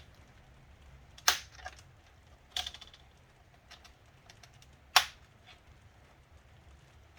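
Sharp clicks and taps of plastic laptop parts being handled while the laptop is taken apart: three loud clicks, about a second, two and a half seconds and five seconds in, with fainter ticks between, over a low steady hum.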